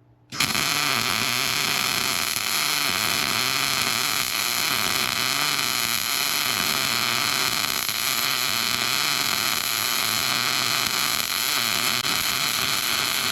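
MIG (wire-feed) welder arc, steady hissing and crackling as a bead is laid on a steel truck frame crossbar. It starts suddenly about half a second in and holds steady.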